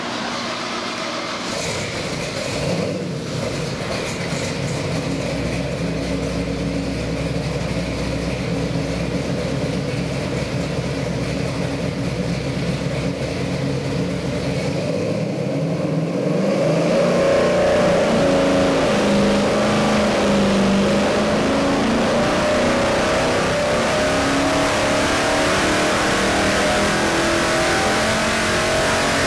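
454 big-block Chevy V8 crate engine running. About 16 seconds in it speeds up and runs louder at higher revs, its pitch drifting slowly up and down.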